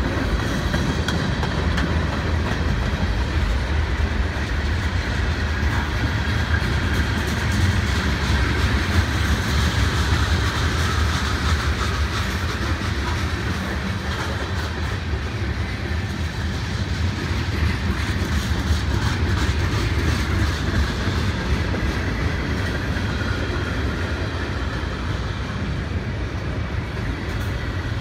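Norfolk Southern freight train cars rolling past at steady speed, a continuous rumble of steel wheels on rail.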